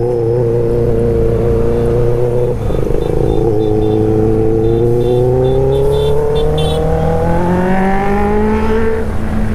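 Benelli 600i's inline-four engine under way at steady revs, breaking off briefly about three seconds in, then pulling with a slowly rising pitch for about five seconds before the pitch drops near the end as it shifts up.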